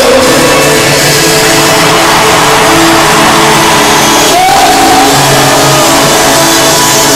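Live stadium concert music: short repeating keyboard notes play in a steady rhythm over loud, continuous crowd noise.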